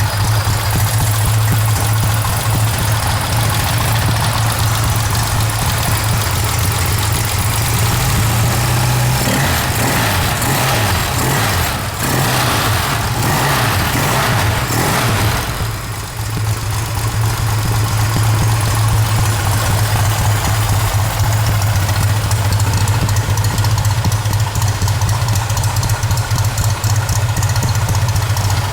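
Benelli Tornado 650S's air-cooled four-stroke parallel-twin running at a steady idle, with a stretch of changing revs about a third of the way in before it settles back to a steady idle.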